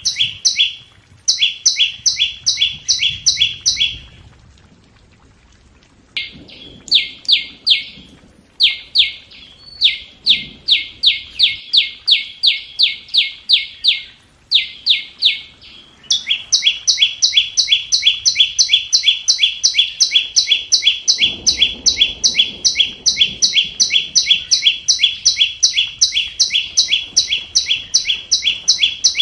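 Flowerpecker decoy call: a rapid series of short, sharp, downslurred ticks, about four a second. Up to about halfway they come in bouts broken by short pauses, then they run without a break.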